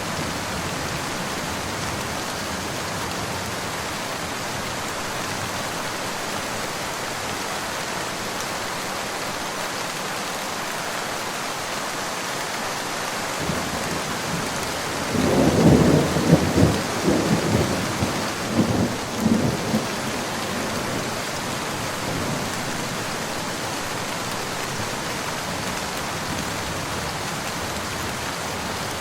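Steady rain falling, with a rumble of thunder about halfway through that builds, crackles in several peaks over some five seconds and fades back into the rain.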